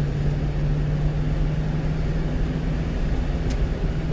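Steady drone of a one-ton truck's engine and road rumble heard from inside the cab while driving through a road tunnel, with a single brief click about three and a half seconds in.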